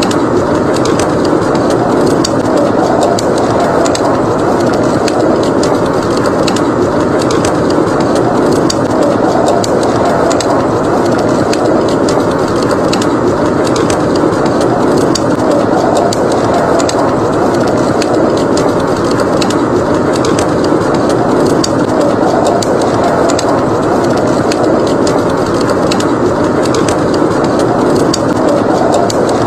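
Wood fire crackling in a fireplace, with frequent small sharp pops, over a steady rushing blizzard wind.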